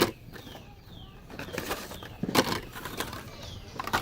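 Clatter of blister-packed die-cast toy cars being handled and pushed around in a store bin, a few sharp plastic clacks. Between them, faint short chirps falling in pitch repeat about twice a second.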